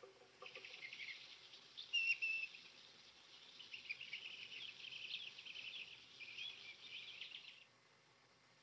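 Small birds chirping and twittering in quick, high calls, with one louder call about two seconds in; the birdsong cuts off abruptly about a second before the end, leaving near silence.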